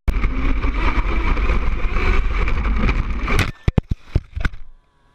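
Gas-powered RC truck running, heard through a GoPro on its loose mount: a loud, rough engine and rattling noise that starts abruptly, then several sharp knocks about three and a half to four and a half seconds in before it drops away.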